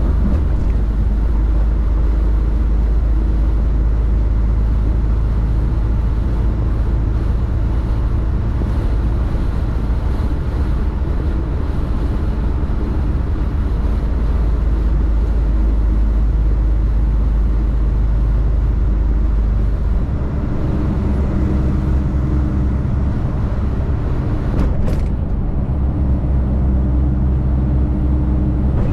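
Semi truck's diesel engine running steadily under way, with road noise. The engine note changes about twenty seconds in, and a single sharp click comes near the end.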